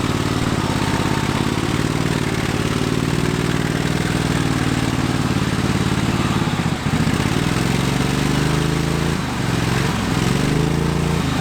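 Modified lawn tractor's engine running hard through a mud bog, the revs held steady at first, then dipping and climbing again several times in the second half as it works through the mud.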